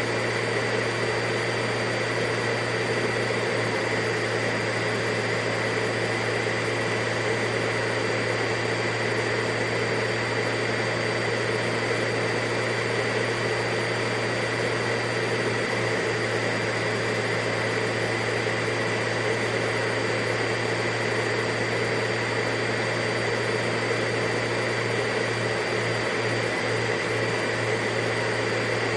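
Vacuum cleaner running steadily, a constant whooshing rush of air with a steady motor hum and whine.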